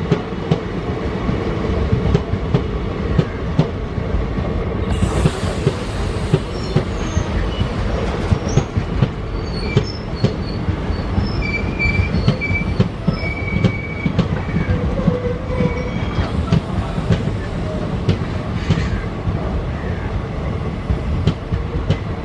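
Passenger train coaches rolling past close by, their wheels clattering steadily over the rail joints. Brief high-pitched wheel squeals come and go in the middle.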